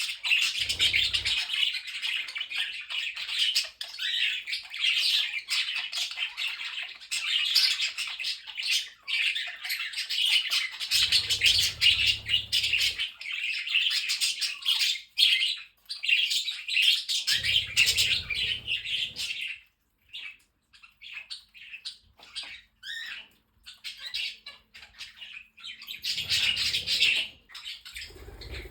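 Mixed flock of pet budgies, cockatiels and parrotlets chattering and chirping without a break, thinning to scattered single calls about twenty seconds in, then picking up again near the end.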